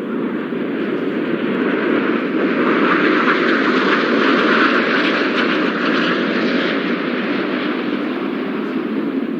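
Formation of nine Red Arrows BAE Hawk T1 jet trainers flying past, their jet noise swelling to a peak about halfway through and then easing off.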